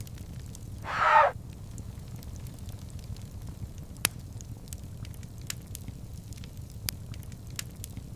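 Wood fire crackling, with scattered sharp pops over a steady low rumble of flames. About a second in, a brief louder sound swells up and cuts off.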